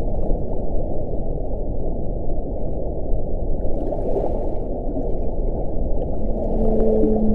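Strong wind blowing in a steady, low, rushing roar, with brief hissing gusts about four and seven seconds in, and a low moaning howl setting in near the end.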